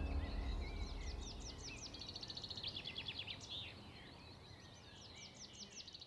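Birds calling: fast runs of high, repeated downward-sweeping notes, over a low background hiss, with music fading out at the start.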